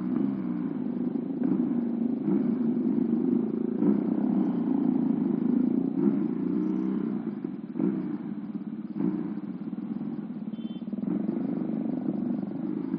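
Two-cylinder engine of a modified Honda Astrea Prima underbone motorcycle running steadily while riding, its level rising and falling a little.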